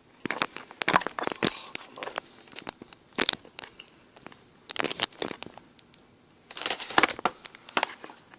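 Close rustling and sharp clicking in four irregular bunches with short quiet gaps between, like something being handled right at the microphone.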